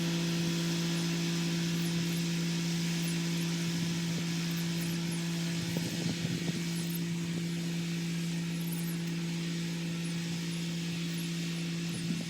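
Kubota SL35 tractor's diesel engine running at a steady speed while it drives a rotary tiller, a constant hum that turns briefly rougher about halfway through.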